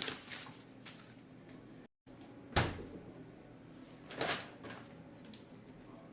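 Kitchen knocks: three short, sharp knocks, the loudest and deepest about two and a half seconds in. The sound drops out briefly about two seconds in.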